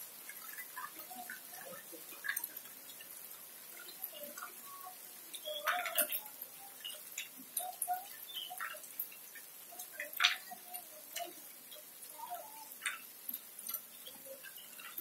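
Rain falling on wet paving, a faint steady hiss with irregular drips and taps of water, two sharper taps standing out about six and ten seconds in.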